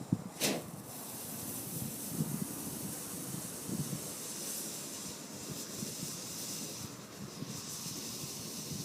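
A garden firework going off: a sharp pop about half a second in, then a steady hiss as it sprays sparks, with a few small crackles.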